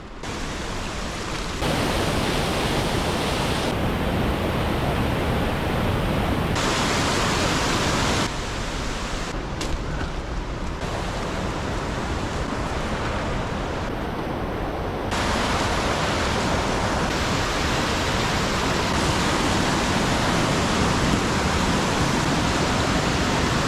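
Steady rushing-water noise, a loud even hiss across all pitches, that jumps abruptly in level and brightness several times.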